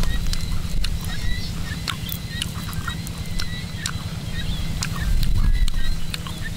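Close-up eating sounds: chewing and many small clicks and crackles as a cooked giant water bug is picked apart by hand and eaten, over a steady low rumble.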